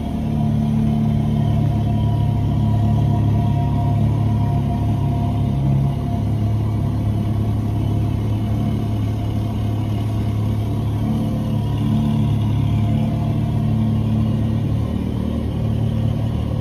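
BMW R 1250 GS boxer twin engine running steadily, a constant low hum that shifts slightly about six seconds in.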